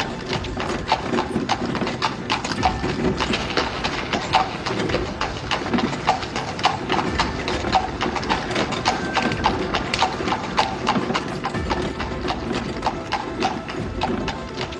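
Hooves of two horses clip-clopping fast on paved road, a quick uneven run of sharp strikes several times a second that keeps going throughout.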